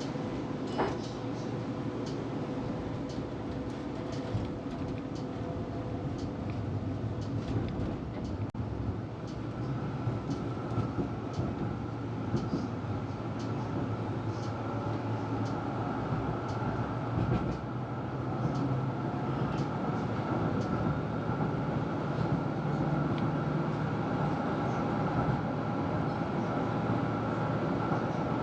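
Electric tram running along its tracks, heard from on board: a steady rumble of wheels on rail with scattered clicks and rattles. A steady motor whine comes in about a third of the way through.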